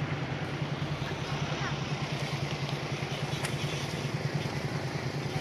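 A small engine running steadily at an even speed, with a fast, regular low throb.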